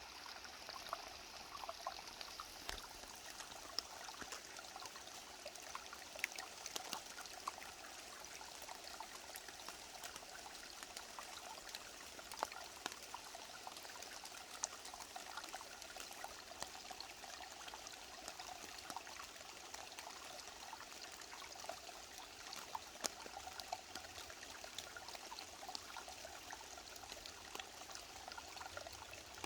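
Mountain valley stream flowing over rocks: a steady rush of water with many small splashes and trickles through it.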